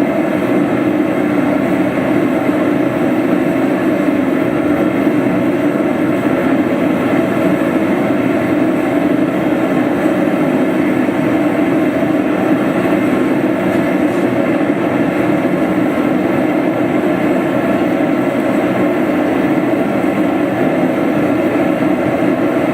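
Forge burner running steadily, heating the knife blade for hardening.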